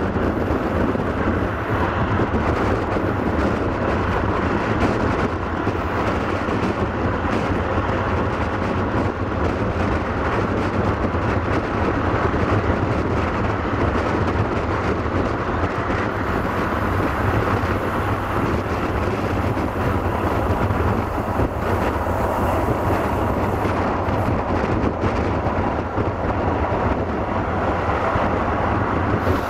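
Passenger train coach running along the track, heard from an open window: a steady rumble of wheels on rails with wind rushing past the microphone.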